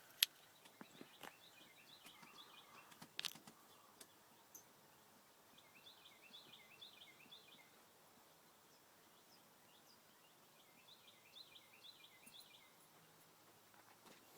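Near silence with faint bird chirping in three short phrases of quick repeated chirps, and a couple of sharp clicks, one just after the start and another about three seconds in.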